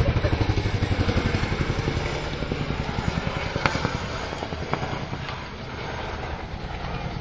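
Boeing Chinook helicopter's tandem rotors beating in a rapid, even blade slap with engine noise beneath. It is loudest at the start, fades over the first couple of seconds, then holds steadier as the aircraft manoeuvres.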